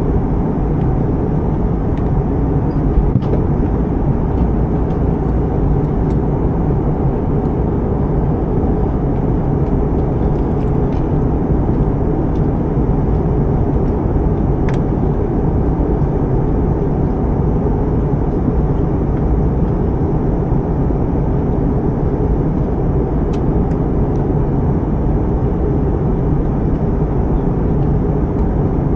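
Steady low jet-engine and airflow rumble heard from inside the cabin of an Airbus A320-family airliner, even in level throughout, with a few faint ticks from the cabin.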